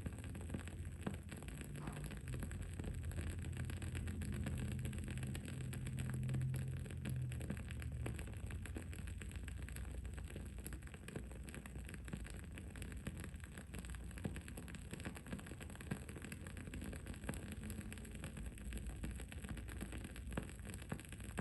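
Wood-wick candle crackling, with scattered faint pops over a steady low background rumble. A low hum swells in the rumble for several seconds in the first third, then fades.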